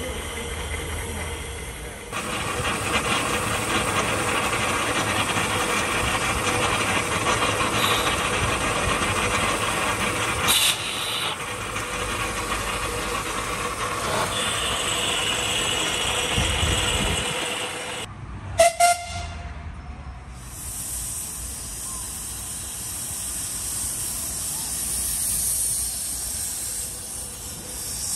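Miniature railway train running along its track, a steady hissing and rumbling noise. Two brief sharp sounds stand out a little over halfway through, after which the noise turns thinner and hissier.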